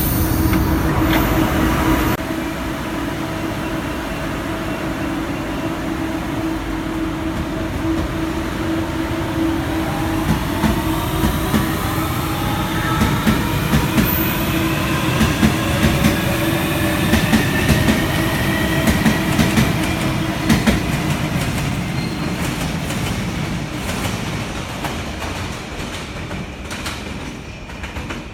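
Guangzhou Metro Line 1 train accelerating: its traction motors give several whines that rise steadily in pitch over the rumble and clatter of the wheels on the rails, then the sound fades away over the last several seconds as the train moves off.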